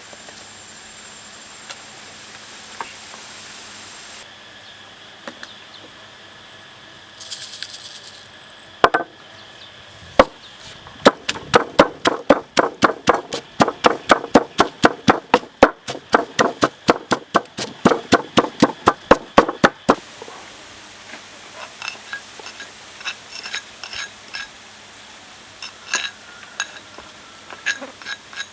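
A run of quick, even knocks, about four a second for close to ten seconds, from ingredients being struck by hand during food preparation. Scattered lighter clinks of utensils and dishes follow.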